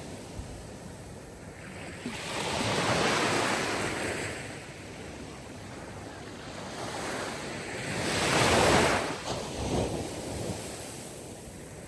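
Sea waves washing in and drawing back in slow swells, each surge of surf rising and fading over a few seconds; the loudest wave breaks about eight to nine seconds in.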